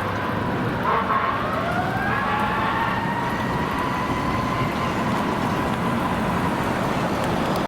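Fire apparatus siren wailing over road and engine noise. About a second and a half in, its pitch sweeps up, then holds and slowly falls.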